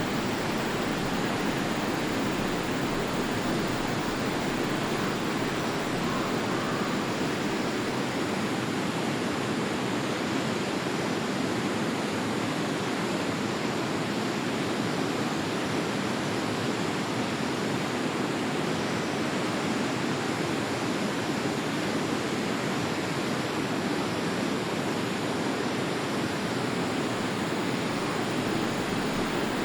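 Forest river flowing steadily: an even, unbroken rush of water.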